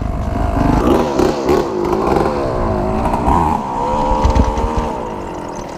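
Dirt bike engine running under riding load, its pitch rising and falling repeatedly as the throttle is opened and rolled off.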